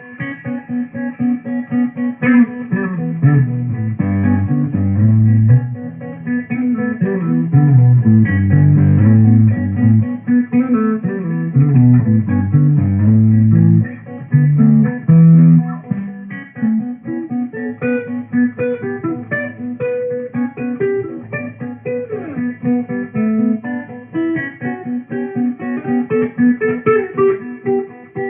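Guitar improvisation: a repeated picked note runs throughout, with a melody moving in the low register under it for the first half. Higher single-note lines come in over the repeated note after about sixteen seconds.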